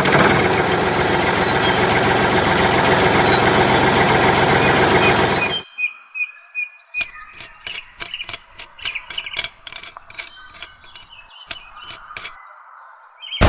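Small electric motor of a DIY mini tractor running with a steady high whine. About halfway through it drops sharply to a quieter whine with irregular clicks.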